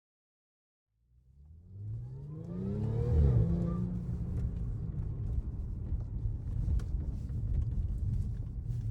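Car engine starting and revving up, its pitch rising to a peak about three seconds in, then settling into a steady low rumble.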